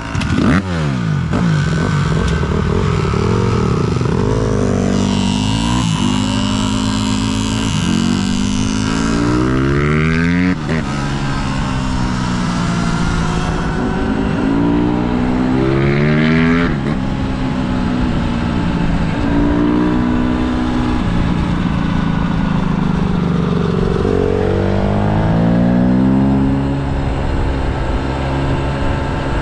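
Dirt bike engine accelerating hard through the gears: its pitch climbs, drops at each shift and climbs again, several times over, with wind rushing past for a while.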